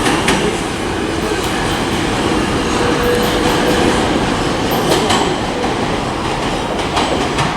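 Vintage subway train running on the rails: a steady, loud rumble with a few sharp clicks from the wheels.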